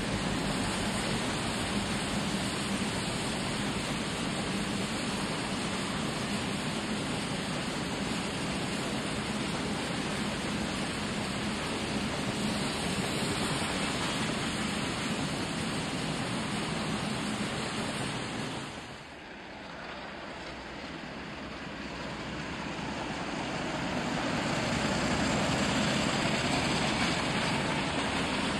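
Freight trains passing: a Class 60 diesel-electric locomotive and its rake of steel wagons roll by with a steady rumble of wheels. The sound cuts out briefly about two-thirds of the way through, then a Class 47 diesel-electric hauling tank wagons comes in, growing louder as it draws near.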